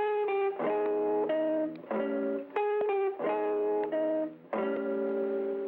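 Guitar music from an old, thin-sounding recording: a run of chords that change every half second to a second, with a longer held chord near the end.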